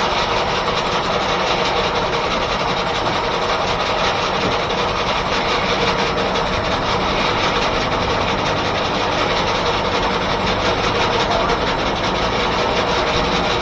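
Steam-engine-driven 1880s R.R. Howell sawmill running, a steady, continuous mechanical sound.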